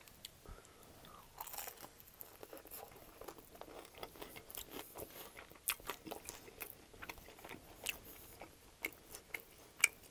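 Close-up chewing of an extra-crispy chicken wing: a run of small, crisp crunches and wet mouth clicks, with one sharper crack near the end.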